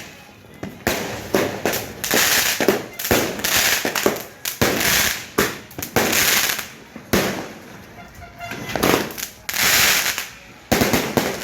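Fireworks and firecrackers going off in a dense, overlapping run: sharp bangs with a louder burst every second or so, several trailing into crackle.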